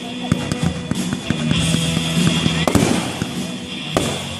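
Fireworks going off: scattered sharp bangs and crackles, the loudest about a second in, near the three-second mark and near the end, over music playing steadily underneath.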